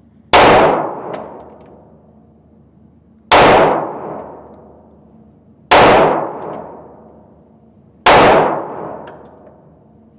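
Four handgun shots fired one at a time, about two and a half seconds apart, each a sharp loud crack followed by a long echoing decay.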